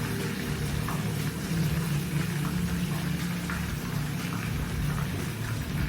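Hot oil sizzling steadily in a pan as chicken taquitos fry, with a steady low hum underneath.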